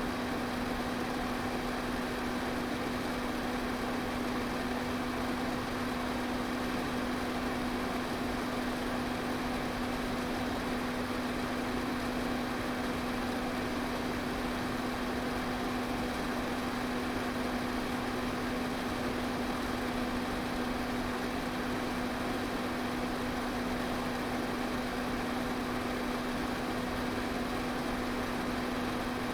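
Electric pedestal fan running steadily: an even rush of air over a constant low motor hum, with no change in speed.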